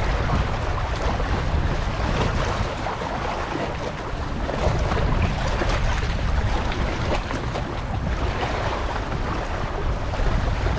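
Wind buffeting the microphone with a steady low rumble over the wash of river water lapping at the shore.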